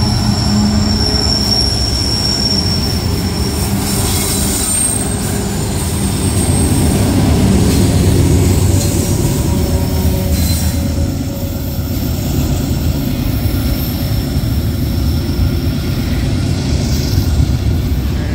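Freight train rolling past, a loud, steady low rumble with high-pitched wheel squeal that comes and goes.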